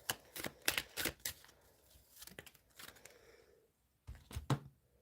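Tarot cards being handled and shuffled: a quick run of short crisp snaps, softer handling, then a louder thump about four seconds in.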